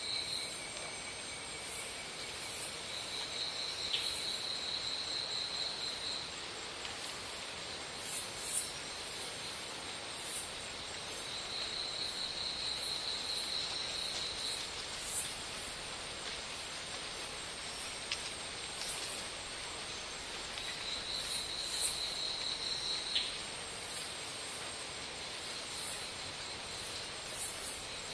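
Insects trilling: a high, steady note that comes in spells of about three seconds, three times, over a constant hiss, with faint short clicks.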